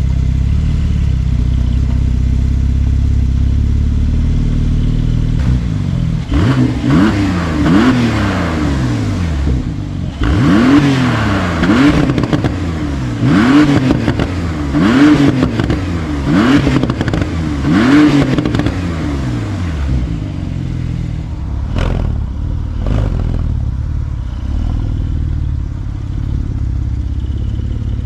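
Porsche 992 Turbo S twin-turbo flat-six idling through an aftermarket titanium-and-stainless exhaust with an X-pipe, then revved in about six quick blips that rise and fall. It then settles back to idle, with a couple of sharp cracks near the end.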